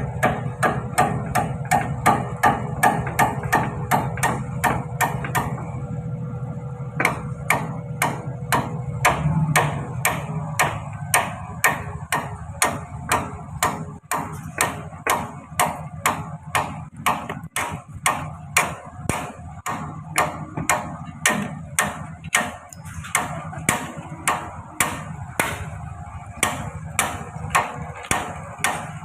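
Hammer blows on metal, struck in a steady rhythm of about two to three a second with a brief pause a few seconds in, typical of driving a bucket pin or shim home while fitting an excavator bucket. A steady low machine hum runs beneath.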